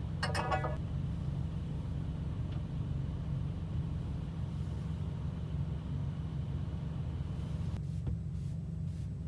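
Semi truck's diesel engine running with a steady low rumble, heard from inside the cab. A short sharp sound rises above it about half a second in.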